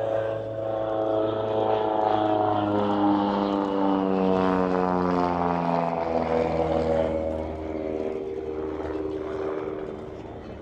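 Propeller-driven aerobatic plane passing low and close. Its engine and propeller note rises in loudness, then falls in pitch as it goes by and fades.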